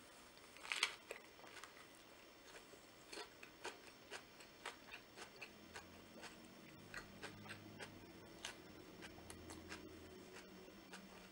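Close-up bite into a Vietnamese fresh spring roll of rice paper, lettuce, carrots and noodles, loudest about a second in, followed by faint wet chewing with many small mouth clicks. A low closed-mouth hum runs through the second half.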